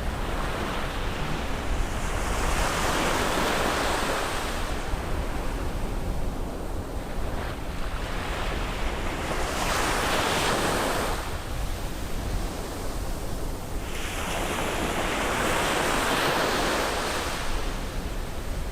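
Sea waves breaking and washing up a beach, three surges of surf a few seconds apart, over a steady low rumble.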